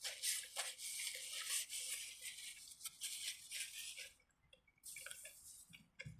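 Dry, scratchy rustling made of many quick strokes for about four seconds, stopping, then starting again briefly about five seconds in.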